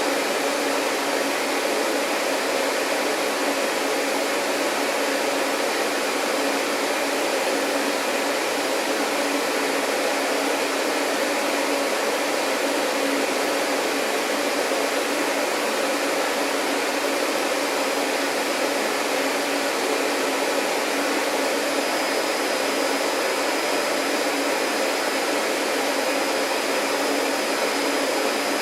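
Vacuum cleaner running steadily with an even motor-and-airflow noise; a faint high whine joins about three-quarters of the way through.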